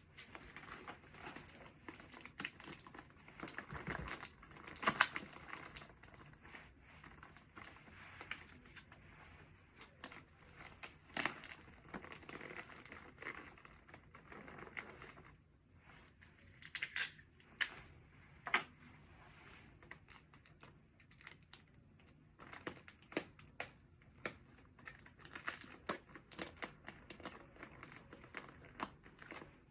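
Plastic packaging crinkling and rustling as it is handled, with scattered sharp taps and clicks.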